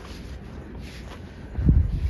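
Storm wind buffeting the microphone in a steady low rumble, with footsteps in snow about once a second and a heavy gust near the end.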